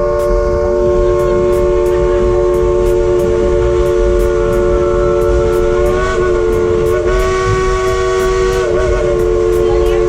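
Steam locomotive's chime whistle held in a long, loud blast, several tones sounding together as a chord, wavering briefly about six seconds in and again near nine seconds, over the low rumble of the moving train.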